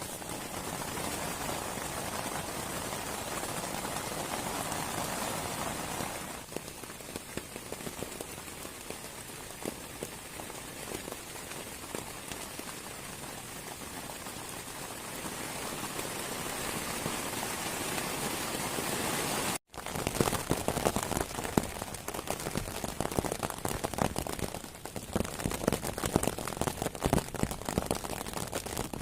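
Heavy rain falling steadily, with many individual drops striking a nearby surface as small sharp taps. About two-thirds of the way through the sound briefly cuts out, then the rain continues with louder, more distinct drop impacts.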